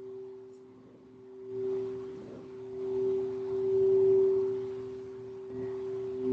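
Singing bowls ringing together: two steady tones held throughout, swelling and fading in slow waves.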